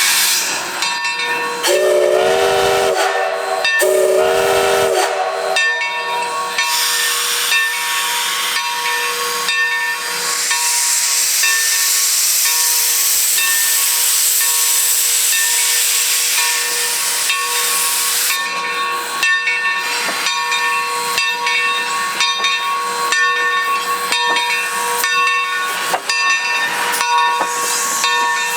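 Steam locomotive sounding two short blasts on a five-chime whistle, then working past with a rapid run of exhaust chuffs and a long hiss of steam about midway.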